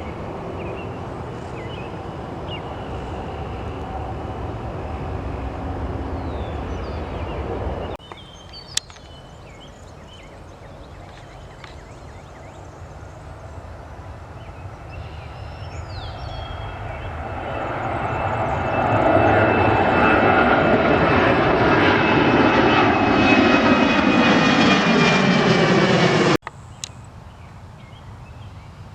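Jet aircraft engines running steadily. After a sudden cut, another jet approaches and grows loud, and its engine whine falls in pitch as it passes. The sound then cuts off abruptly.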